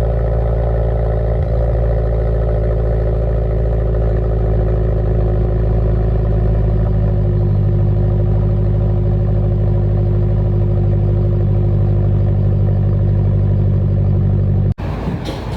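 Car engine running at a steady idle after a cold start, with a strong low rumble. About a second before the end it cuts abruptly to a different, rougher engine sound.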